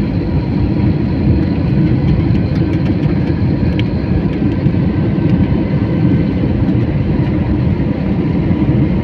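Airliner cabin noise: a steady low rumble from the jet engines running while the plane is on the ground, with faint steady high-pitched whines over it.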